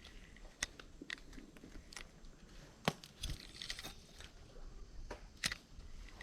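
Handling noises: a few scattered sharp clicks and knocks, the loudest about three seconds in, with a stretch of crinkling ticks in between.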